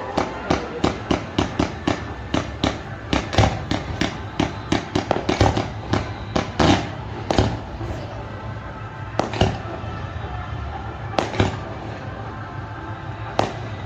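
Fireworks bursting: a rapid string of bangs, about three a second, for the first half, then thinning out to single loud bangs about two seconds apart.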